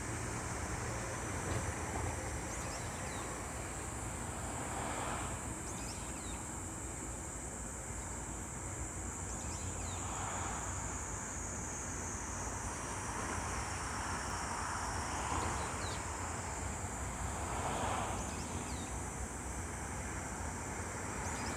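Seaside outdoor ambience: waves washing in slow swells every few seconds, with wind on the microphone and a steady high hiss underneath.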